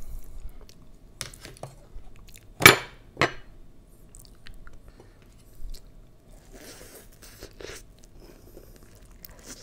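Close-miked eating of brazo de mercedes, a soft meringue roll with custard filling: chewing with sharp mouth clicks, two loud ones about two and a half and three seconds in, then a soft crackly bite into the meringue a few seconds later.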